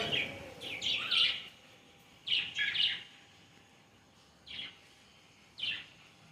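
Parakeets calling in short shrill squawks. The calls come in clusters at the start, about a second in and about two and a half seconds in, followed by two single calls later on.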